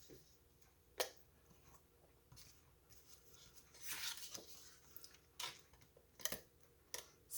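Cardstock and paper being handled on a table: faint rustles and a few light taps and clicks as the card layers are picked up and set down.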